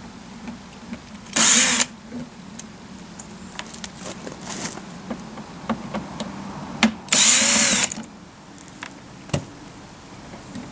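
Cordless drill-driver backing out T15 screws from a plastic door panel in two short bursts, about a second in and about seven seconds in, with small clicks and knocks of screws and plastic between them.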